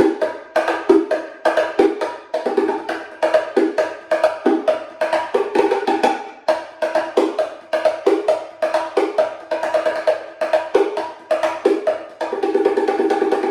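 Cruz Bongo Cajon, a small wooden box drum, played with bare hands in a quick groove of alternating right-left strokes. The strokes fall on a lower and a higher tone, mixing accented hits with soft ghost notes, and end in a rapid roll near the end.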